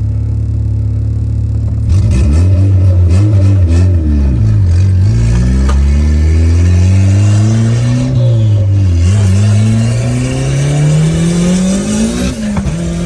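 Turbocharged Honda B16 engine in an EG Civic hatchback, through its new exhaust: it idles steadily for about two seconds, then revs hard, the pitch climbing and dropping several times, with a long steady climb near the end that falls away suddenly. The engine is still cold, not yet warmed up.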